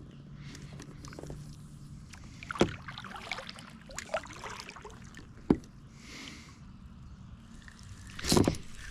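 Kayak on the water with handling sounds: a few sharp knocks on the hull and a louder burst of noise near the end.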